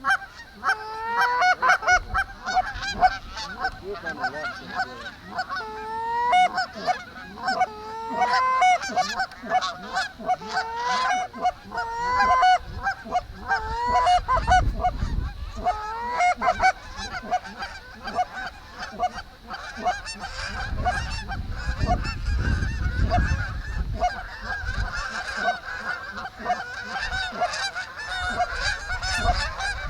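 Canada geese honking, many calls repeating and overlapping, growing into a dense chorus in the second half. A low rumble rises under the calls twice in the middle.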